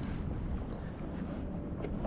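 Wind buffeting the microphone on a kayak at sea: a steady low rumble with no distinct events.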